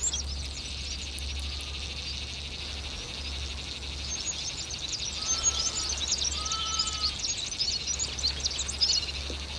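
A dense chorus of small songbirds, Cape canaries and southern red bishops, twittering and chirping rapidly and continuously. Two lower whistled notes come about halfway through.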